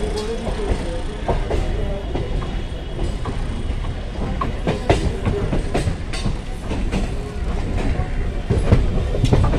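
Electric suburban local train (EMU) rolling through a rail yard, its wheels rumbling steadily with an irregular clatter of clicks as they pass over rail joints, points and crossings, heard from an open doorway.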